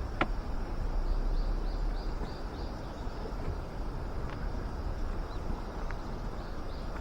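Wind rumbling on the microphone outdoors, with a sharp click just after the start. About a second in comes a quick run of six faint high chirps, roughly three a second.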